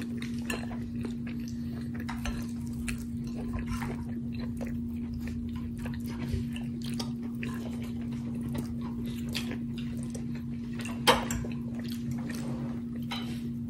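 Chewing with the mouth closed while a metal fork scrapes and clicks against a glass dish. There are many small soft clicks, one sharper click about eleven seconds in, and a steady low hum throughout.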